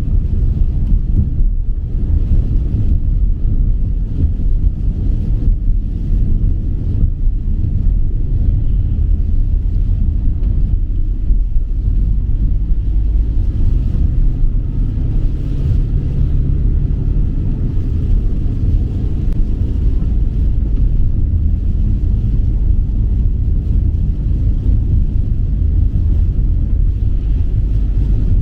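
Steady low rumble with a faint hiss above it, unbroken throughout.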